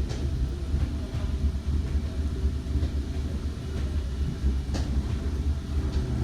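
Class 8100 DART electric train running at speed, a steady low rumble from the wheels and running gear with a few sharp clicks.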